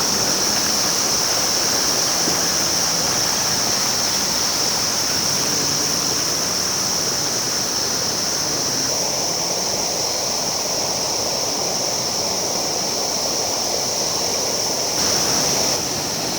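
River water rushing over rocks, a steady noisy flow, with a steady high-pitched hiss above it. The sound shifts abruptly a couple of times, with a brief louder step near the end.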